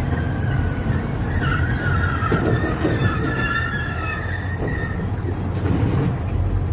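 Steady rumble of a vehicle driving, as picked up by a dashcam, with a thin high whine of a few steady tones that wavers about two seconds in.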